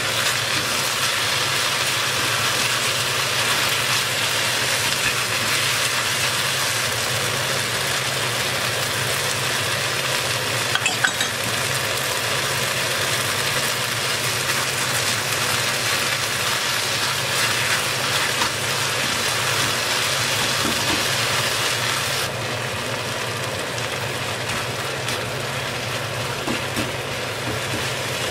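Cherry tomatoes and green onion sizzling steadily in oil in a pan while being stirred with a spatula, over a steady low hum. A couple of sharp clicks come partway through, and the sizzle drops a little about two-thirds of the way in.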